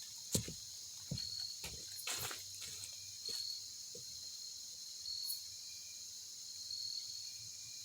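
Steady high-pitched chorus of insects, with a brighter call repeating about every second and a half. A few short knocks sound in the first four seconds, the loudest about half a second in.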